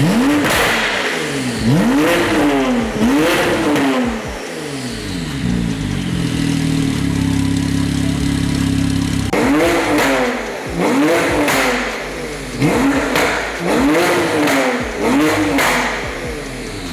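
Porsche 991 Turbo's twin-turbo flat-six with a newly fitted Quicksilver exhaust, revved in short blips that rise and fall, settling to a steady idle for a few seconds in the middle before several more blips.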